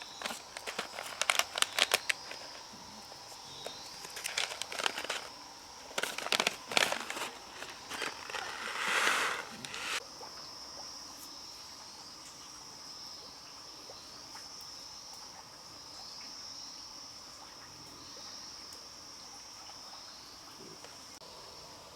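Insects, likely crickets or cicadas, buzzing steadily in a high, even drone with small repeated chirps. For the first half, irregular sharp knocks and scrapes sound over it, followed by a louder rushing scrape about nine seconds in. These stop suddenly at about ten seconds, leaving only the insects.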